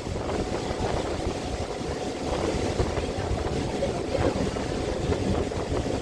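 Wind buffeting the microphone, an uneven low rumble over a steady rushing noise.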